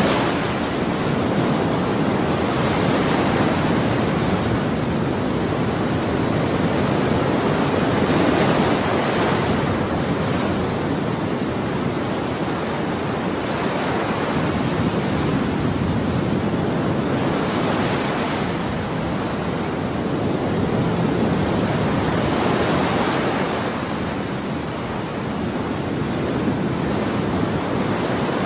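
Ocean waves washing on a shore in a steady rush, with a wave breaking every few seconds.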